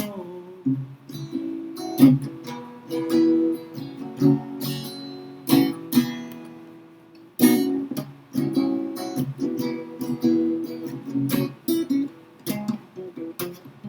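Acoustic guitar playing an instrumental passage of a folk song, with chords strummed and plucked and no singing.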